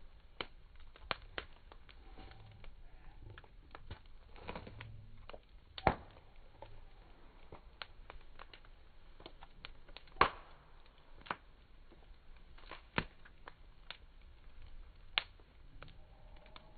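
Wood campfire crackling: sharp, irregular pops and snaps, the two loudest about six and ten seconds in.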